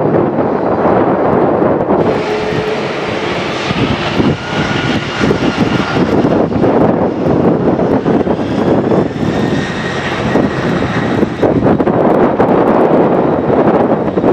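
Jet engines of a Boeing 747-400D at takeoff power: a loud steady jet noise with a faint high whine that comes in about two seconds in, over wind buffeting the microphone.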